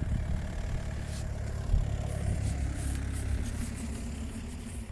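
Car engine idling: a steady low rumble with a faint even hum above it.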